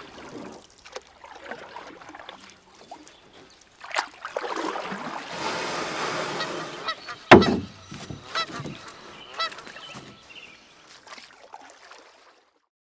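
Loud honking calls from a large bird: a sudden loud call about seven seconds in, then a quick run of shorter honks, after a stretch of hissing noise.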